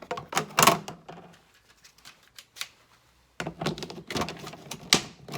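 Two runs of rapid clicking and clattering knocks from hard objects being handled, each lasting about a second and a half, with a quiet gap between them.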